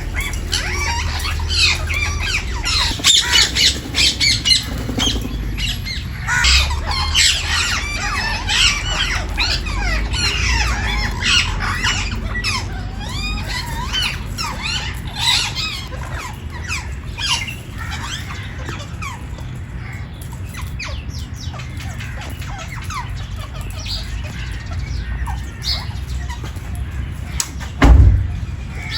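Several parrots squawking and chattering, with many short calls overlapping, busiest in the first half and thinning out later. A single loud thump comes near the end.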